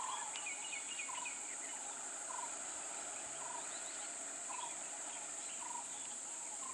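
A bird repeating a short call about once a second, with fainter chirps of other birds, over a steady high drone of insects.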